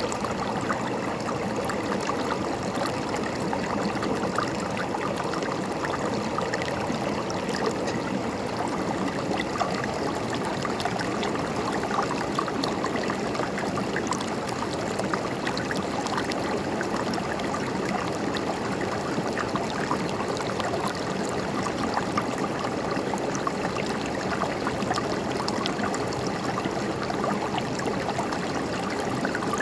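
River water rushing and gurgling over rocks, a steady wash of flowing water with small splashes throughout.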